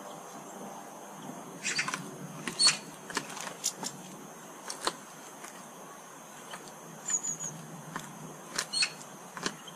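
Small garden birds: scattered short, sharp chirps at irregular intervals, with a quick run of three short high notes about seven seconds in.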